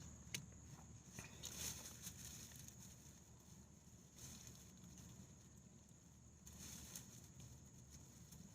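Near silence, with faint scattered rustling and a few soft clicks.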